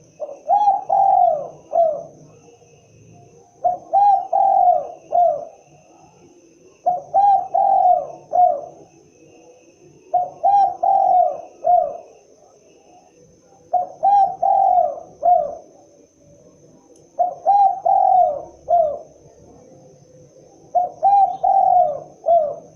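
Spotted dove (tekukur) cooing: seven repeated phrases of about four coos each, coming roughly every three and a half seconds.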